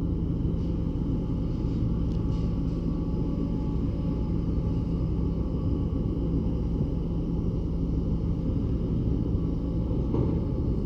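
Ferry Taiko's diesel engines running as it enters port: a steady low rumbling hum with a few constant tones.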